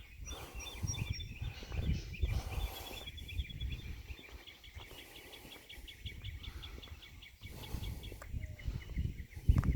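Small songbirds chirping and twittering in quick repeated notes, over a low uneven rumble, with one loud thump near the end.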